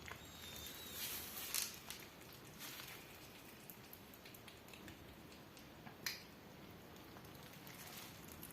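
Cat eating: faint, irregular wet clicks and smacks of chewing, with a couple of sharper clicks.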